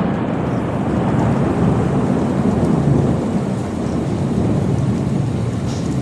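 Thunder rolling in a deep, continuous rumble with rain falling, with no sharp crack of a close strike.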